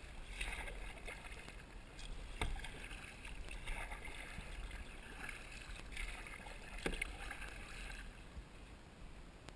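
Kayak paddle dipping and swishing through river water in a slow, irregular rhythm, faint, with two short sharp knocks about two and a half and seven seconds in.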